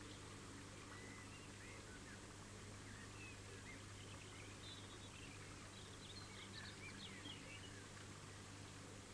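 Faint, scattered chirping of small birds, short high calls, busiest in the second half, over a steady low electrical hum.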